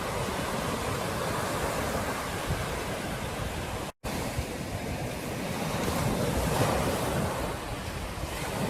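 Ocean surf washing onto a beach, a continuous rushing noise with wind rumbling on the microphone. The sound drops out completely for an instant about four seconds in, and a wave swells louder around six to seven seconds.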